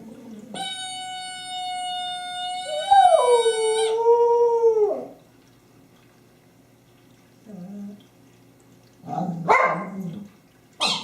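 Dog howling: long held notes, the pitch wavering and sliding down before fading out about five seconds in. After a quiet stretch there is a short, sharp rising cry near the end.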